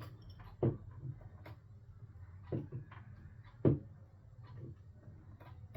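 Scattered small clicks and taps, about five, as a smartphone is handled and opened up during repair, over a steady low hum.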